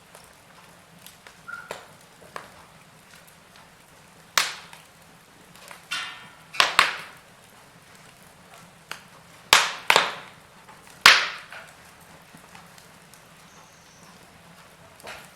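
Fire crackling in a fireplace: scattered small ticks and a handful of sharp, loud pops at irregular intervals, each dying away quickly.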